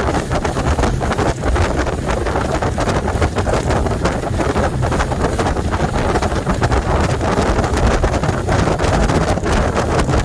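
Wind rushing and buffeting against the microphone aboard a fast-moving powerboat, over the steady noise of the boat's engine and hull running on the water.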